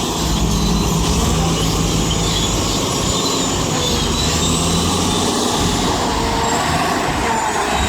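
Heavy diesel engine of a wheel loader running hard, with high metallic squealing and whining over it. The steady engine note holds for about the first five seconds, then turns rougher.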